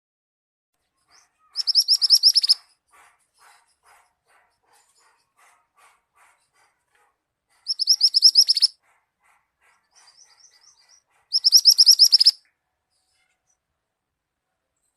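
Contest songbird singing: three loud, fast high trills of about a second each, with faint chips between them.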